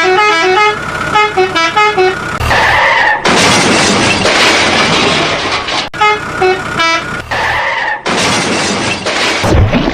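An intro sequence that plays twice: a quick, bright jingle of short stepping notes, then a horn toot lasting under a second, then a loud, even rushing noise of about two and a half seconds.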